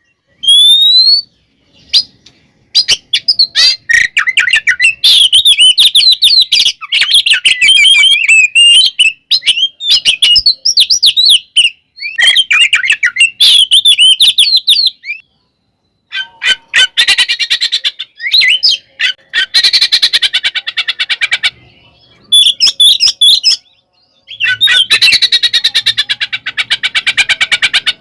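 Oriental magpie-robin (kacer) singing loudly: fast, varied whistled phrases broken by short pauses, with stretches of rapid rattling trills about two-thirds of the way in and again near the end.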